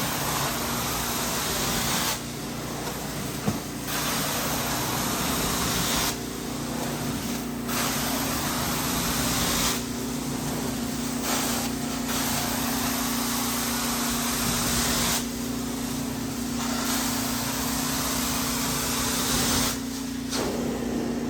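Hot water carpet extraction: the wand's hiss comes and goes in strokes of about two seconds, alternating spray and dry passes, over the steady hum of the extraction machine's motors.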